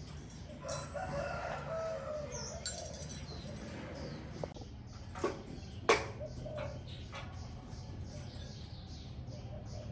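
A few sharp knocks, the loudest about six seconds in, over a steady low hum, with short bird calls about one to two seconds in.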